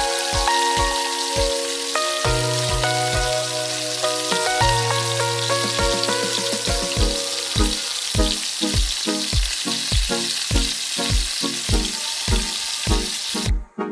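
Sliced onions and a grated paste sizzling steadily in hot oil in a nonstick pan, under background music with a steady beat. The sizzle cuts off abruptly near the end, leaving only the music.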